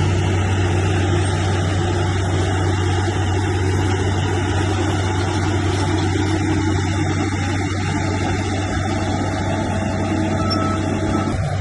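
Heavy diesel engine of earthmoving machinery running steadily, with a constant low hum.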